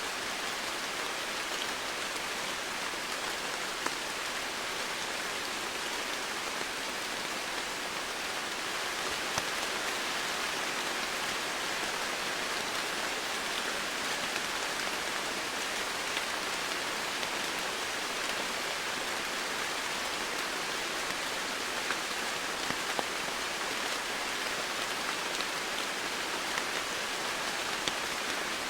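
Steady rain falling on foliage and surfaces, an even hiss with scattered individual drop ticks.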